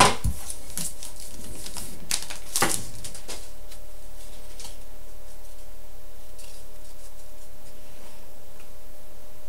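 Foil wrapper of a trading card pack crinkling and crackling as it is torn open, with sharp crackles at the start and again about two and a half seconds in, then only a few faint rustles.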